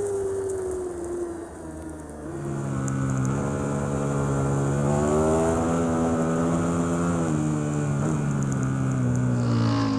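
A superbike's engine heard from on board the bike. The note drops and quietens about a second in as the rider shuts off, then picks up and rises steadily as the bike accelerates, easing off again near the end.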